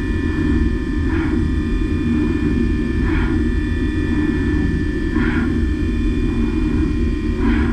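CNC milling machine cutting steel: a steady rumble of the cut under a constant high whine from the spindle, with a brief hissing swell about every two seconds.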